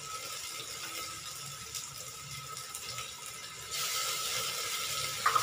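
Onions and ginger-garlic paste sizzling as they fry in oil in a pan, a steady hiss that grows louder about three and a half seconds in.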